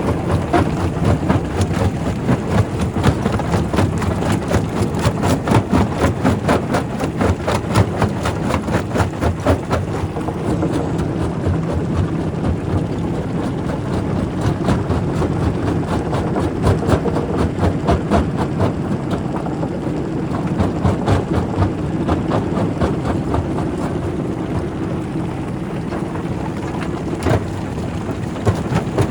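Primary rock crusher at work: a steady heavy machine drone with rapid, irregular cracks and knocks of stone being broken, thickest in the first half.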